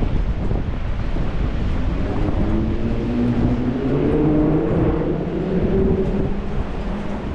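Strong wind buffeting the microphone with a steady low rumble, while a road vehicle passes on the wet street; its engine hum swells about two seconds in and fades near the end.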